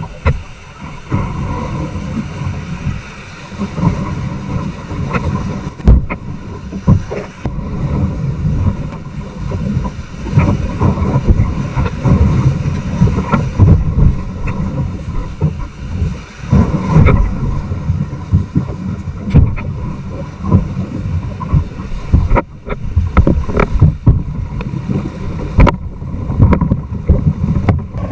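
Kayak running river rapids: rushing white water and wind rumbling on the microphone. Sharp knocks of paddle and hull come every second or two, with a few louder ones about 6, 17 and 26 seconds in.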